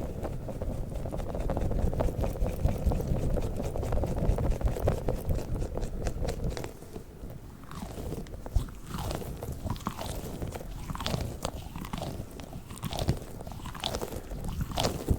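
Squishy balls squeezed and rubbed close to the microphone. For the first half there is a dense, low rubbing rumble; about halfway through it gives way to separate squelchy, crackling squeezes.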